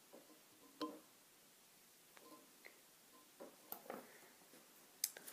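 Near silence, broken by a few faint short clicks and taps of fly-tying thread and tools being handled as half hitch knots are tied to finish a fly.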